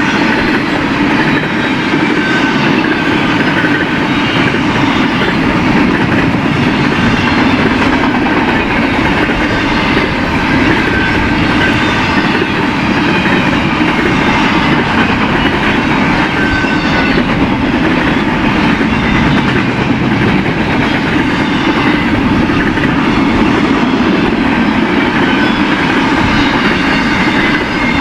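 Freight train cars rolling past at speed: a steady, loud rumble of steel wheels on rail with a rhythmic clickety-clack and a faint wheel squeal now and then.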